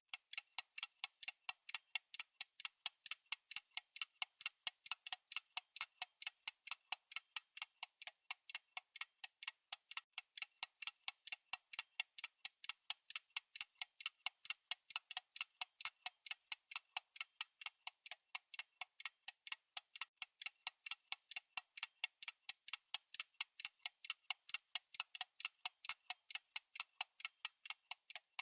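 Clock-style ticking sound effect: an even run of short, sharp, high ticks, several a second.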